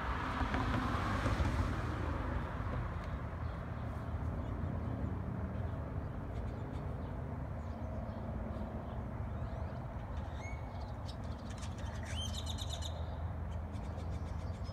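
Birds chirping, a short call about ten seconds in and then a quick run of high notes a couple of seconds later, over a steady low rumble that is loudest in the first two seconds.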